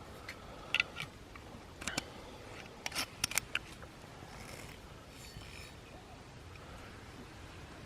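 Campfire wood crackling: a run of irregular sharp pops and clicks in the first few seconds, fading to a few faint ones.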